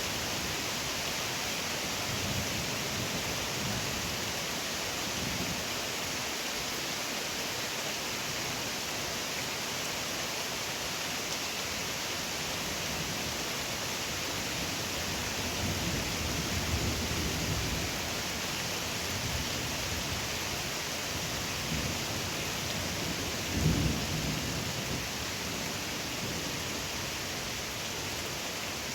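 Steady rain falling during a thunderstorm, with thunder rumbling low a few times and one louder, sharper thunderclap about two-thirds of the way through.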